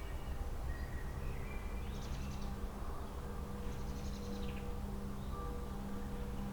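Songbirds calling: short high chirps, then two brief rapid trills about two and four seconds in. Under them runs a steady low hum and rumble.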